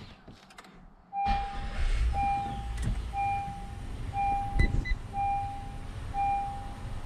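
The 2020 Honda Ridgeline's 3.5-litre V6 starts about a second in and idles with a steady low rumble, while a dashboard warning chime beeps evenly about once a second.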